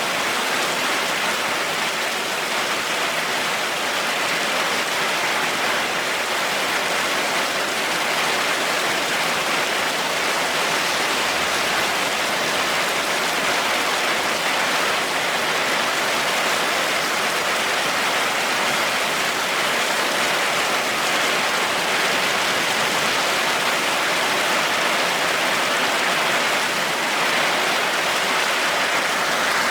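Heavy rain falling steadily, an even hiss without a break and with no thunder.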